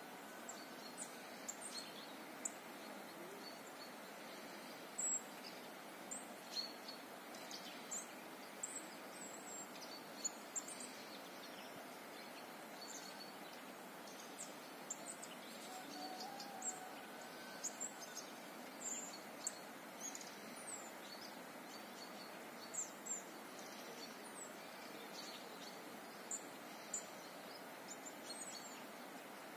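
Several small birds chirping, with many short high calls scattered throughout over a steady faint hiss.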